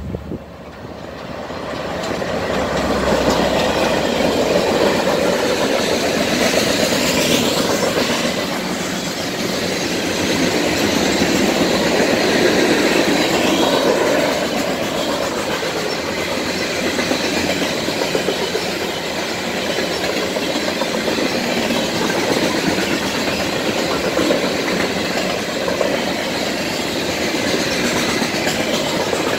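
Diesel-hauled coal train passing close by: the locomotives go by as the sound builds over the first few seconds, then a long string of coal hopper cars rolls past with steady steel-wheel noise on the rails.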